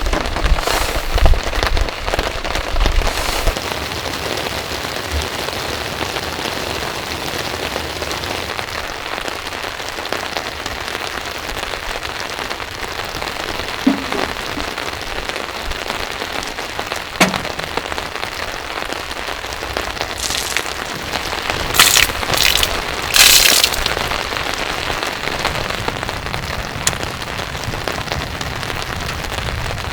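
Steady rain falling in a forest, an even hiss of drops. There are a few low knocks in the first few seconds and a short run of louder, sharper noises about two-thirds of the way through.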